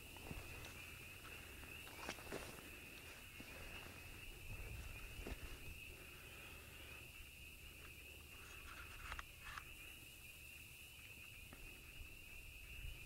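Faint, steady high-pitched insect trill, like a cricket chorus, with a few soft clicks.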